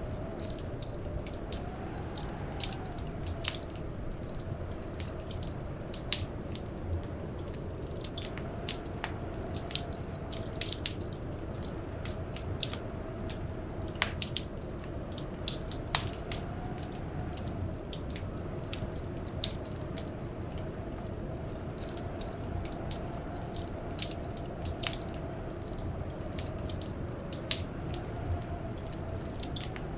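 Wood fire crackling in a fireplace: many irregular sharp pops and snaps over a steady low rumble. Throughout, a faint hum wavers slightly in pitch, like wind outside during a blizzard.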